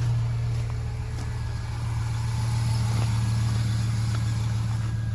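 2003 Chevrolet Silverado pickup engine idling steadily through its exhaust, still cold and warming up after a cold start in about 9-degree weather.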